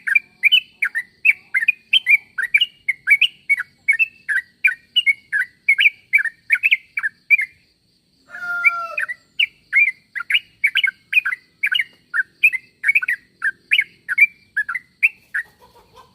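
Yellow-vented bulbul (trucuk) calling: a rapid series of short, clear, bubbling notes, about three a second. The calls pause about seven and a half seconds in for a brief lower, rougher call, then resume. This is the call played to lure other trucuk into answering.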